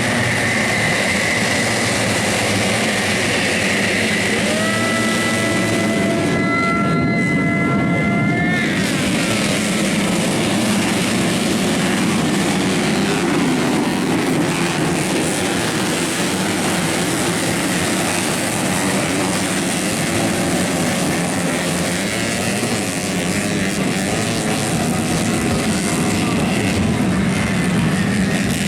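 Modified underbone racing motorcycles, up to 250 cc, running hard around a grasstrack circuit. Their engines make a continuous drone, and one engine holds a high, slightly rising note for a few seconds.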